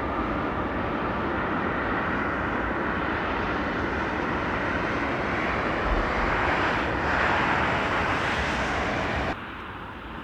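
Passenger jet airliner's engines, loud and steady, with a whine that swells about seven seconds in; the sound drops off abruptly near the end.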